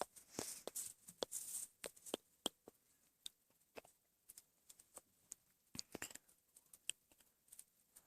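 Faint, irregular small clicks and scratches, a few a second, with a short scraping rustle about a second in.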